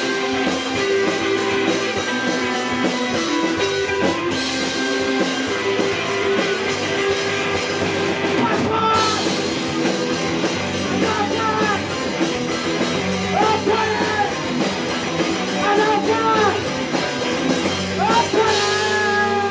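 Rock band playing live: electric guitars over a drum kit, with a melodic line that bends up and down in pitch through the second half.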